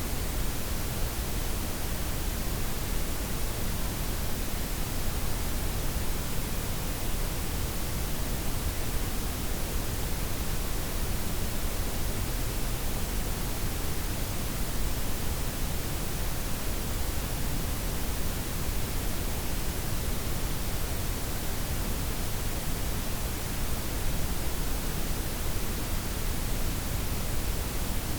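Steady synthetic layered noise, a blend of white, pink and brown noise with the highs softened: an even, unbroken hiss with a strong low rumble underneath.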